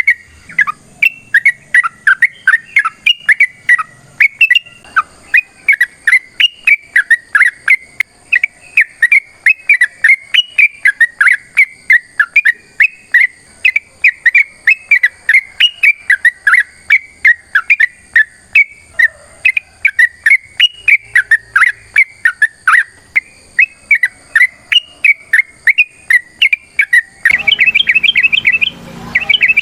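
Yellow-vented bulbul (trucukan) singing a long, unbroken run of quick, bubbly whistled notes, several a second. Near the end the song switches to faster, higher notes over a hiss of background noise.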